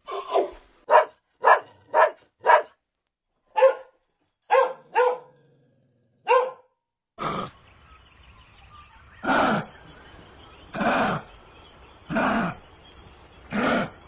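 A run of short, sharp animal calls, some in quick pairs and triplets. About seven seconds in, a different recording begins: a steady background hiss with a longer animal call repeated about every one and a half seconds.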